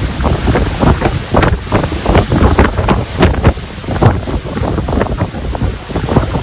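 Typhoon wind gusting hard against the microphone, loud and uneven, with many sharp buffets.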